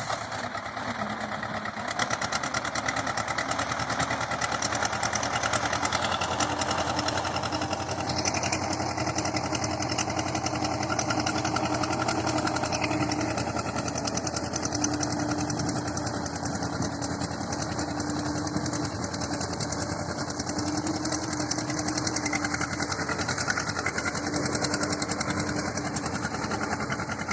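Tractor engine running steadily with a fast, even firing rhythm. A steady humming tone comes and goes over it in stretches.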